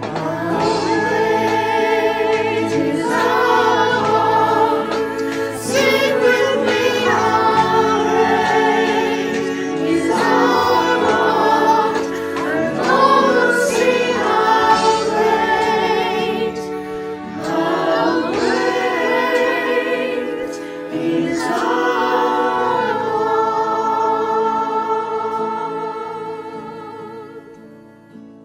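A choir sings a worship song with musical backing, in phrases of held notes with vibrato. The song fades out over the last few seconds.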